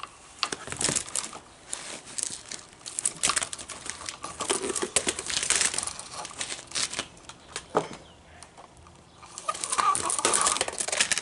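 Plastic bump head spool and nylon trimmer line being handled: irregular scraping, rustling and clicking, in two spells with a short lull past the middle.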